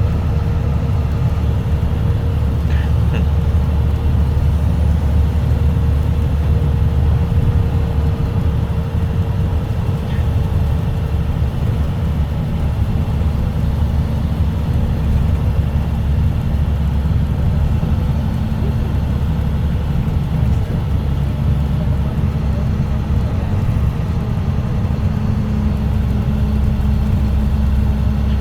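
Diesel drone and road noise of a 2006 Blue Bird Vision school bus's CAT C7 engine, heard from inside the cabin. It is a steady low rumble whose tone changes near the end.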